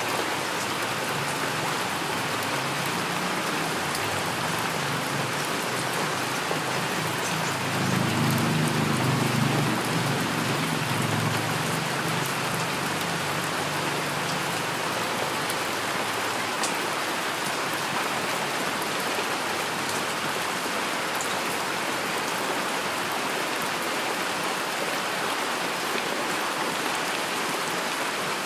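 Steady heavy rain falling and splashing on surfaces. A low rumble of distant thunder swells about eight seconds in and dies away by about fifteen seconds.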